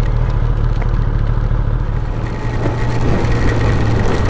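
Kawasaki ZX-10R's inline-four engine running steadily while the motorcycle is ridden, with wind and heavy-rain noise on the microphone.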